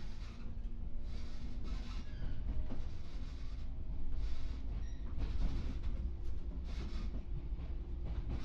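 JR 415 series electric train running, heard from inside the passenger car: a steady low rumble of wheels on rails, with swells of rail noise every second or so.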